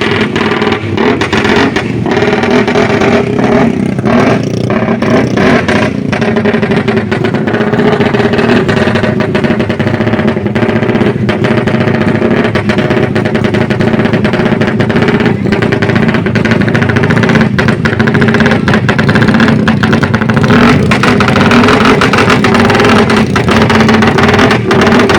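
Motorcycle engines running loudly and being revved.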